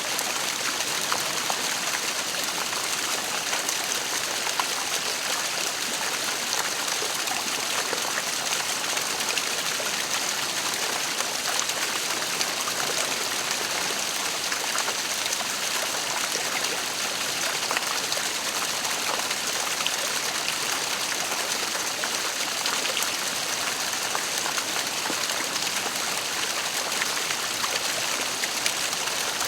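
Waterfall: water pouring and splashing steadily, a continuous rushing hiss with small splashes and drips scattered through it.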